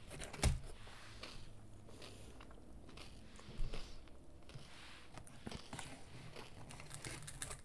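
Quiet, close-miked chewing of a battered corn dog, with small handling noises and two soft knocks, one about half a second in and one about three and a half seconds in.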